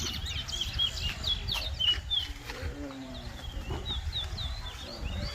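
Small caged songbirds chirping: a steady run of short, quick, high whistled notes, several birds overlapping, typical of towa towa seed finches at a whistling competition ground.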